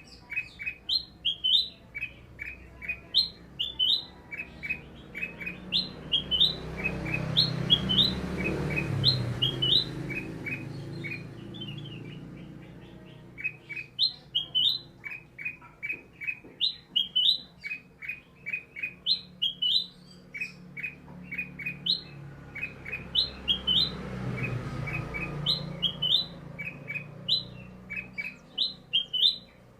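Sooty-headed bulbul (kutilang) calling as a lure recording: runs of short sharp chirps alternate with quick two-note upward whistles, the phrase repeating over and over. Twice a low rushing noise swells up under the calls and fades away.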